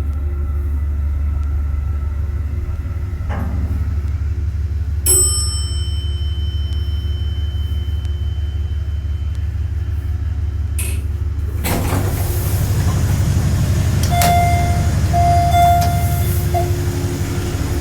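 Station elevator running with a steady low hum. A chime rings out about five seconds in. From about twelve seconds in a louder rush of noise sets in, with short repeated tones toward the end.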